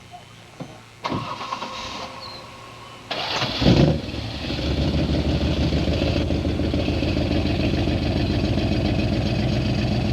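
1975 Plymouth Valiant's engine being started: it cranks, catches with a brief loud rev about three and a half seconds in, then settles into a steady idle.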